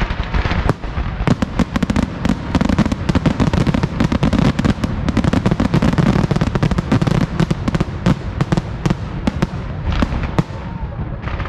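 Aerial fireworks display: a dense, rapid barrage of shell bursts and crackling reports that thins out near the end.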